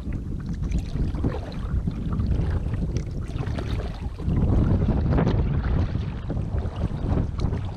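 Wind rumbling on a GoPro microphone on a kayak, with water splashing and lapping; the rumble grows louder for a couple of seconds about halfway through.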